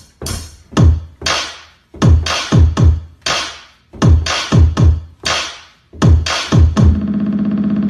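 Electronic beat built on a drum machine: heavy bass kicks that slide down in pitch, in an uneven rhythm, with sharp hits on top. About seven seconds in, a steady buzzing synth bass note takes over.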